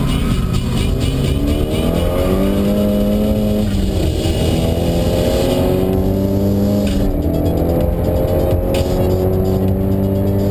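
Nissan Silvia S15's four-cylinder engine under hard acceleration, heard from inside the cabin: the revs climb, drop at an upshift about four seconds in, climb again and drop at a second upshift about seven seconds in, then climb once more.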